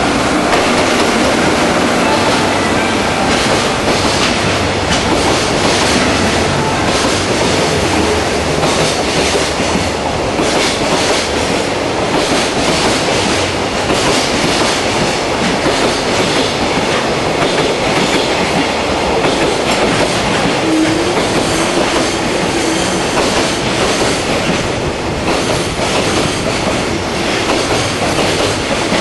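Container wagons of a JR Freight train rolling steadily past, their wheels clattering over the rail joints.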